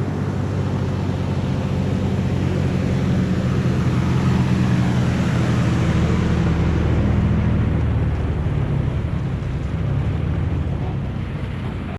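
A large engine running steadily with a deep, even hum, easing slightly after about eight seconds and cutting off abruptly at the end.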